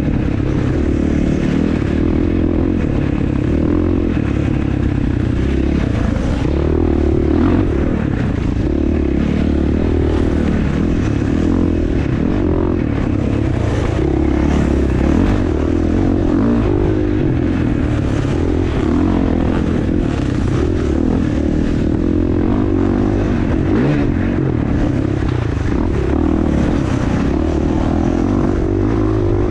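Dirt bike engine running under load, its revs rising and falling continuously as the bike is ridden.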